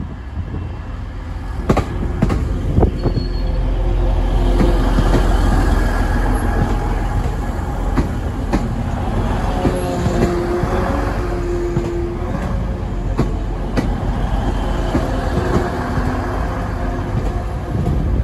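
TransPennine Express Class 185 diesel multiple unit running slowly into the platform: a low engine rumble, sharp clicks of the wheels over rail joints, and wheel squeal in several steady tones, loudest about ten to eleven seconds in.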